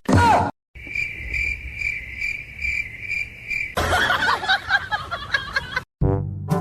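Cricket chirping in an even rhythm, about two chirps a second, for about three seconds. It gives way to about two seconds of dense, rough, noisy sound.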